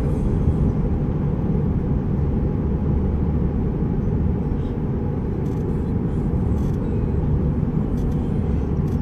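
Steady rumble of road and wind noise from a moving car, with no breaks, cutting off abruptly at the very end.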